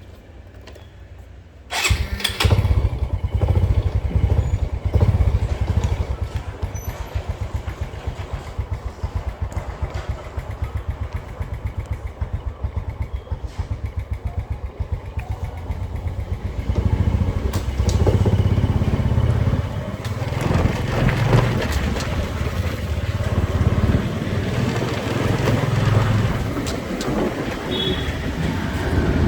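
Motorcycle engine starting about two seconds in, then running with a rapid, even pulse; from about halfway through it runs louder and less even as the bike gets under way.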